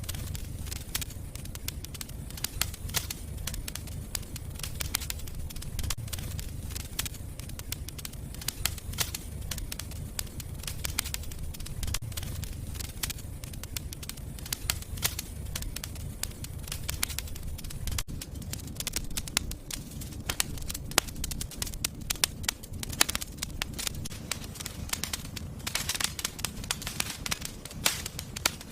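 Fire in a fireplace crackling, with frequent sharp pops and snaps over a low steady rumble; the crackling grows busier shortly before the end.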